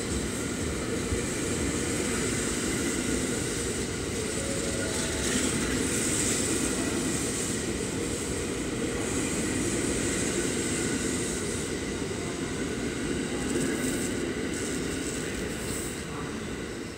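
JR West 683 series electric express train passing close by, a steady rumble of wheels on rails that fades as the last car goes by near the end.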